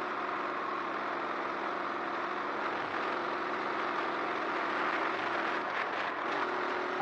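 Motorcycle running steadily on the move: a constant rushing noise over a faint, even engine hum.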